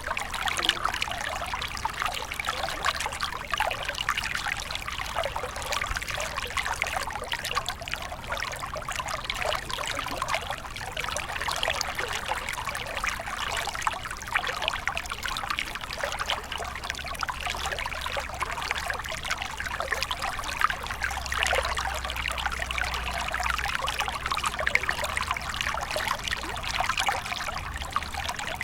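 A small stream of water trickling and splashing over stones, a steady babble made of many tiny splashes.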